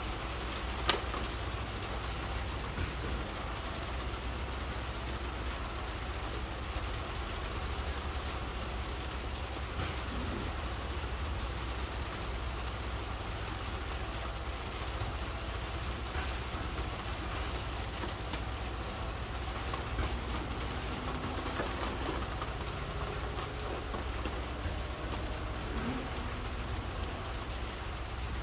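Steady rain falling, over a low steady rumble, with scattered light taps as small weights are set down on a paper stencil; one sharper click about a second in.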